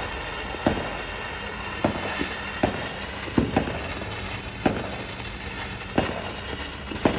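Handheld firework going off with a steady hiss, firing a sharp pop roughly every second, with a quick cluster of pops near the end.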